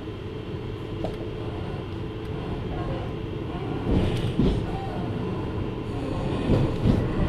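Onboard running sound of a JR Hokkaido 733 series electric train: a steady rumble of wheels on rails, with a few thumps about four seconds in and again near the end.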